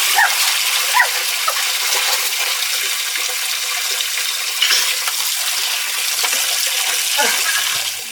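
Steady rushing water of a waterfall, a loud even hiss with a few short chirps over it. It cuts off abruptly at the very end.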